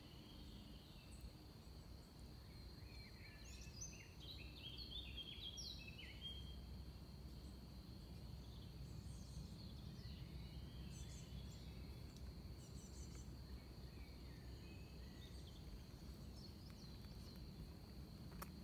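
Faint background ambience: a low steady rumble and a thin steady high whine, with small birds chirping. There is a short run of song about three to six seconds in and a few fainter chirps later.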